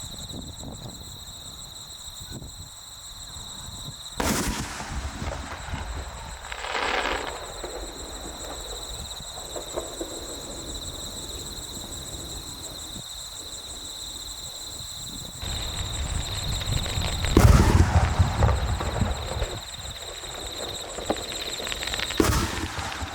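Fireworks shells bursting in the sky: a sharp burst about four seconds in, a softer crackle a few seconds later, a long loud boom with a deep rumble and crackling past the middle, and another burst near the end.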